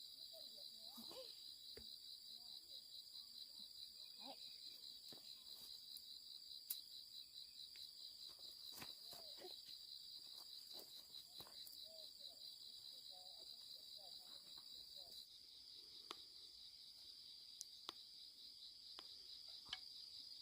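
Insects trilling steadily in a fast, even pulse, faint, with a few scattered soft clicks.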